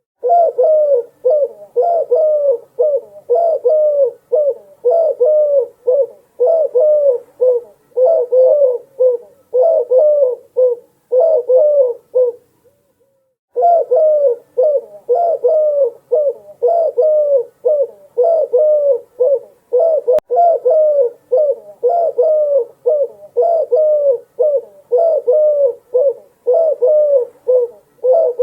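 Doves cooing: repeated low coos in quick succession, with a short pause about halfway through.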